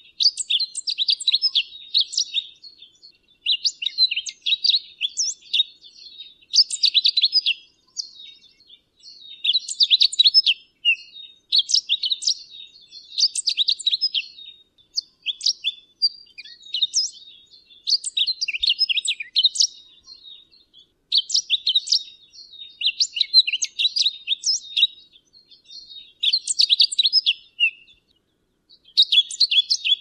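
Crimson-browed finch giving short bursts of rapid, high chirping notes, about one burst every two seconds with brief pauses between.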